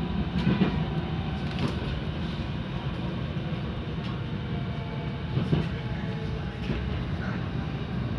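Inside a Stadler GTW railcar while it runs: a steady low rumble with several thin whining tones held over it, and a few sharp clicks and knocks from the running gear.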